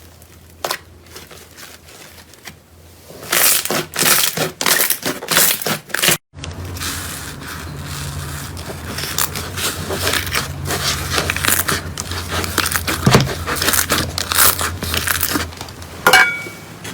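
Slime being squeezed and pressed in the hands, giving dense crackling, popping clicks. There is a brief gap about six seconds in, then the crackling goes on at a steadier level.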